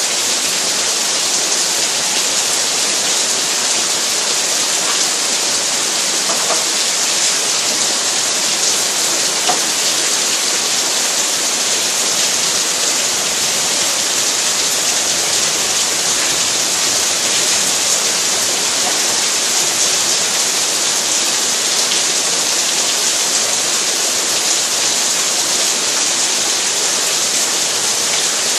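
Steady rain falling, a constant even hiss that does not let up.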